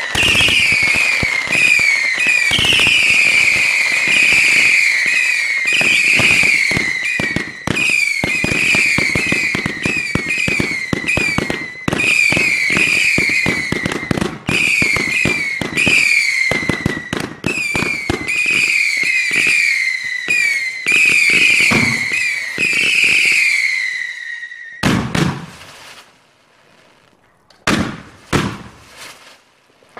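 Fireworks going off: a fast, overlapping run of shrill whistles, each falling in pitch, over steady crackling and popping. It stops about 24 seconds in, and a few separate bangs and crackles follow.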